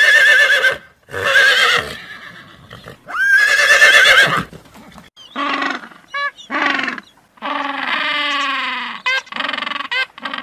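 A series of loud animal calls: three long calls with a wavering pitch in the first half, then shorter calls, one longer call, and a run of quick calls near the end.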